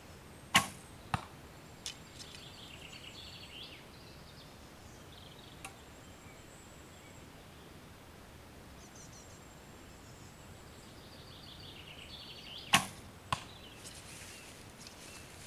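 Two arrows shot from a bow: each sharp release is followed about half a second later by a smaller thud as the arrow hits a 3D target. One shot comes about half a second in, the other near the end. Birds chirp between the shots.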